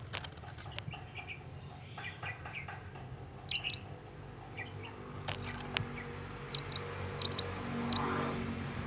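Scarlet minivet calling: short high chirps in quick clusters of two or three, with lower chirps between them. A few sharp clicks and a steady low hum lie underneath.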